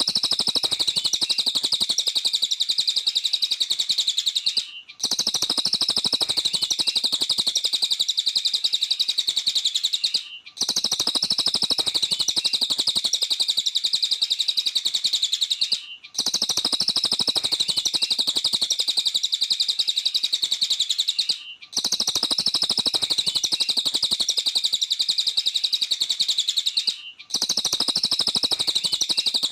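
Cililin songbird singing vigorously in a dense stream of rapid, high chirps and trills. The song breaks off briefly about every five and a half seconds and starts again, like a recording repeated in a loop.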